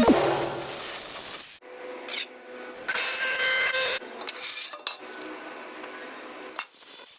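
Electric arc welding on a truck part: a crackling, rasping hiss, broken by abrupt cuts about one and a half seconds in and again near the end.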